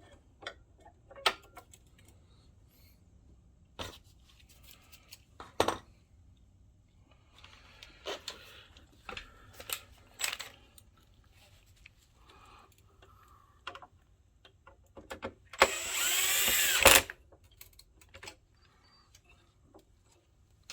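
Small parts and tools clicking and knocking during reassembly of a projector, then a power screwdriver runs for about a second near the end, its pitch gliding as it drives a screw.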